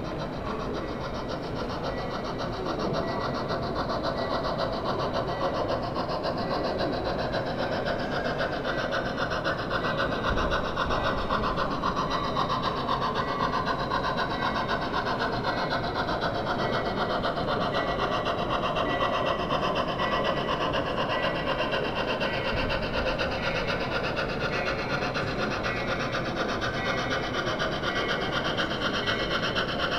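Model train running on a layout: a continuous mechanical whir with a whine that slowly shifts in pitch, getting a little louder about three seconds in.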